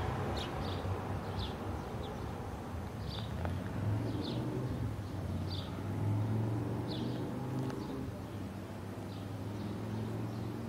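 Small bird calling in short high chirps every second or so, over the steady low hum of traffic on the street.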